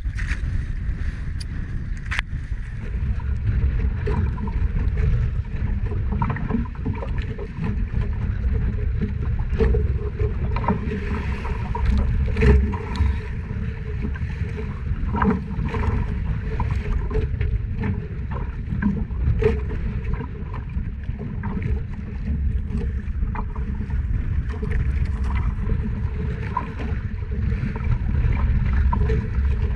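Small fishing boat at sea: a steady low rumble of wind and water around the hull, with a faint hum and scattered knocks and clicks.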